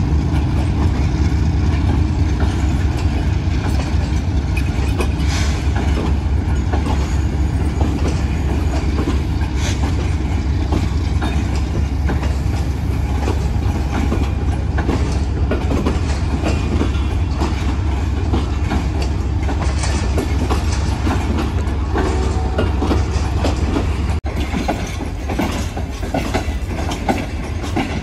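Pakistan Railways passenger coaches rolling past as an express train departs, a steady low rumble with wheels clicking over the rail joints. The sound dips briefly about three-quarters of the way through and carries on a little quieter.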